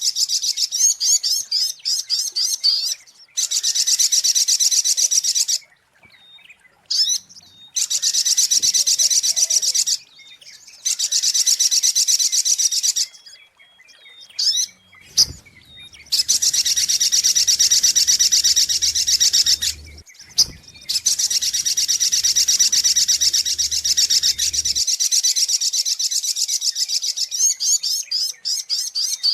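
Spiderhunter (sogok ontong) calling in long runs of rapid, high chattering notes, each run lasting a few seconds, with short pauses holding a few thin single notes in between. This is a lure call used to attract the bird.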